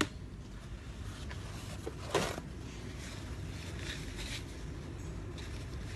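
Eating sounds at a meal: a sharp click at the start, a short louder noise about two seconds in, and a few fainter ones later, over a low steady hum.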